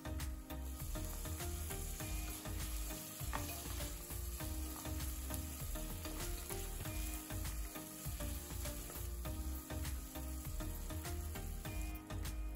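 Chopped tomato and onion sizzling in hot oil in an aluminium pressure cooker, stirred with a wooden spatula that scrapes and taps the pan.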